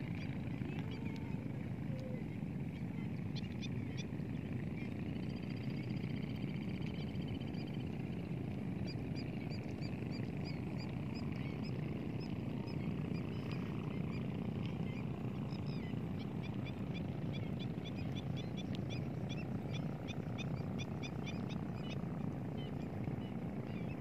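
Small birds calling over a steady low rumble: a thin high trill for a few seconds, then a long run of rapid, high, short chirps from about nine seconds in until a couple of seconds before the end.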